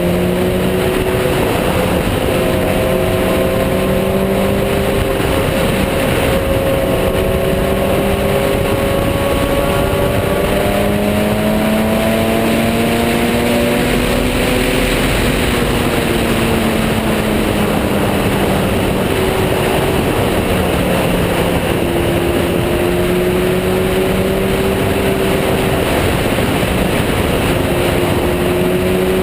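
Motorcycle engine running at steady road speed under a constant rush of wind and road noise. The engine note drifts slowly up and down, climbing to its highest about halfway through, then easing back.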